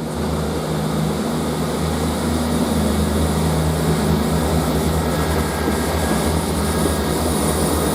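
A South Western Railway Class 158/159 diesel multiple unit departs with its diesel engines under power. It gives a loud, steady, low drone with no break.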